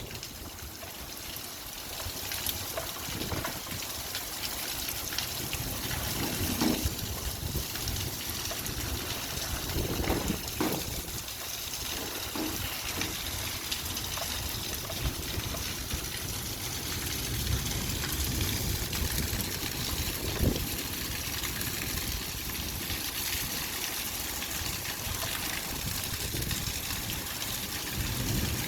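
Light rain falling steadily, with water trickling and a few brief louder drips.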